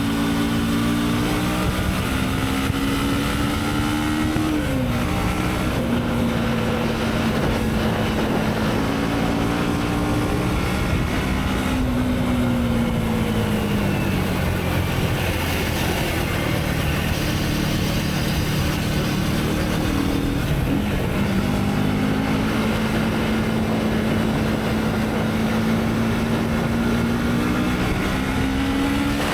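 Motorcycle engine running under way, its pitch climbing and dropping as the throttle opens and closes and gears change, with a steady rush of wind and road noise.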